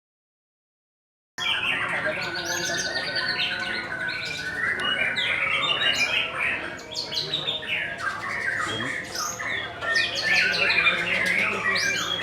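Many songbirds singing and chirping at once, a dense overlapping chorus of fast trills and short rising and falling notes. It starts suddenly about a second and a half in, after silence.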